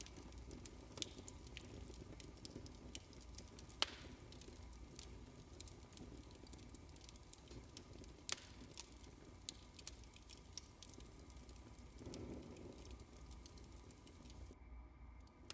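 Wood fire crackling in a fireplace: faint, irregular small pops and snaps over a low rumble, with two sharper pops about four and eight seconds in.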